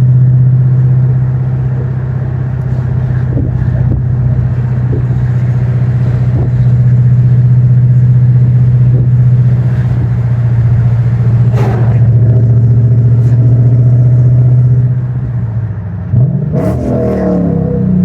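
Dodge Charger's 5.7L Hemi V8 heard from inside the cabin while cruising, a steady low drone. Near the end the note dips briefly, then sweeps up and back down in pitch.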